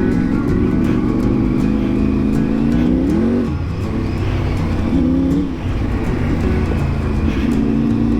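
Triumph 900 Rally Pro's three-cylinder engine running under way, its revs climbing to a peak about three seconds in, dropping sharply, then rising and falling twice more as the throttle is worked.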